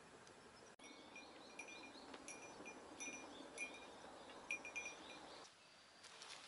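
Faint birdsong: short, high chirping notes repeated in quick phrases over a soft outdoor hiss, stopping about five and a half seconds in.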